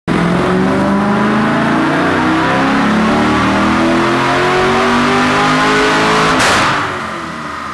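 LS-based V8 in a swapped BMW E36 M3, revving hard and held at high rpm under load on a chassis dyno. About six and a half seconds in there is a sharp burst, then the engine note drops away.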